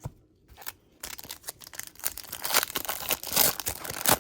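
Trading-card pack wrapper being torn open and crinkled by hand: a quick run of tearing and rustling that starts about a second in and gets louder towards the end.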